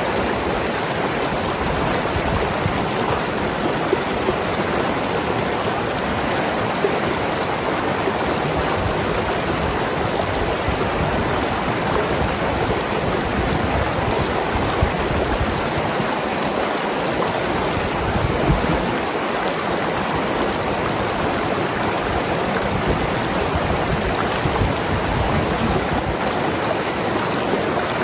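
Mountain river flowing and gurgling over rocks: a steady rush of water with small irregular splashes.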